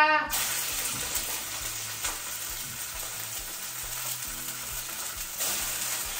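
Chicken frying in a pan with too much hot oil: a steady sizzle that starts suddenly just after the meat goes in, with a few small pops.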